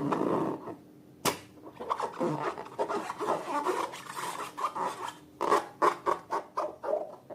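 Slime being squished and worked by hand, a rubbing, crackling texture with a sharp click a little over a second in. From about five seconds on it turns into a rapid run of short pops, about four a second.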